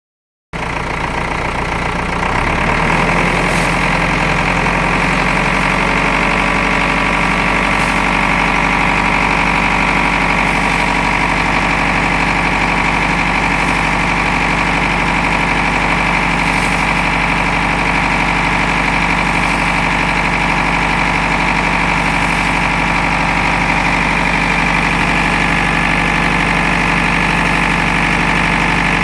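An engine idling steadily, its note settling about two seconds after the sound begins.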